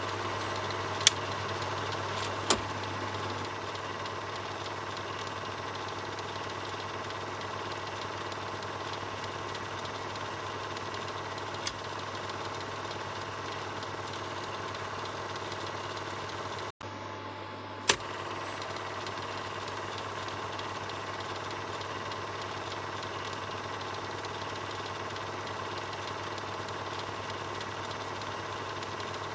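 Film projector running steadily, its motor humming under the even whirring clatter of the film transport mechanism. A few sharp clicks are scattered through it, and the sound cuts out for an instant a little past halfway.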